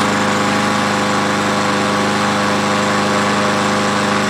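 Gas lawn mower's small engine running steadily at a constant speed, loud, just after it has fired up.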